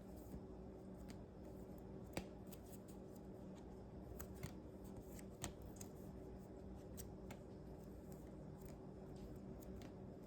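Faint irregular clicks and rustles of trading-card binder pages being handled and turned, over a steady low hum.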